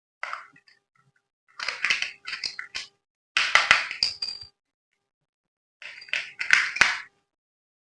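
Packaging being handled: a short burst at the start, then three main bursts of crinkling and clicking, with silent gaps between them.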